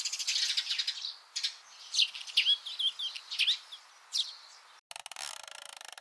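Small birds chirping: a quick trill, then a series of short rising and falling chirps. About five seconds in, a fast, even mechanical ticking starts, like a ratchet, and cuts off abruptly.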